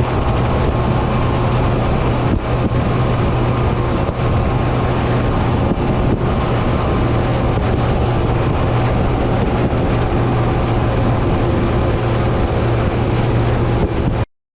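Boat engine running steadily at an even speed, with wind buffeting the microphone; the sound cuts off abruptly near the end.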